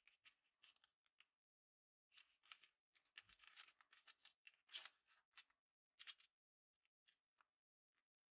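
Paper being handled: quiet, crisp paper sounds in short irregular bursts with brief silent gaps, busiest in the middle and thinning to scattered small snaps near the end.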